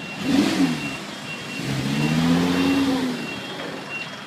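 Audi R8 supercar engine revving as the car pulls away: a short burst of revs about a third of a second in, then the engine note climbs under acceleration, holds and eases off near the three-second mark. A steady electronic beep repeats in the background.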